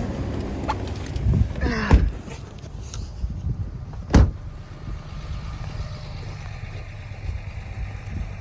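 A vehicle engine running steadily, with a few sharp knocks, the loudest about four seconds in.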